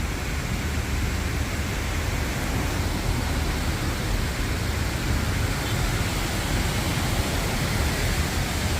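Steady rush of water pouring over a waterfall, an even hiss with a low rumble underneath.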